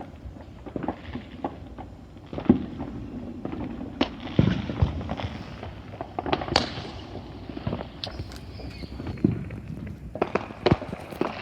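Fireworks going off: irregular bangs and pops, with a quick string of firecracker cracks about ten seconds in.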